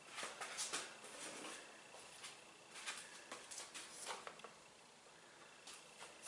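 Faint scattered clicks, taps and short scrapes of washer parts and tools being handled, busiest in the first second and a half, with a few more taps later and a short lull near the end.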